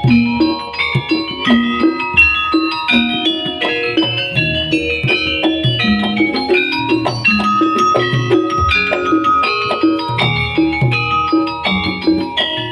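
Live accompaniment music for a Javanese jaranan pegon horse dance: quick, busy melodic notes over a steady low drum beat.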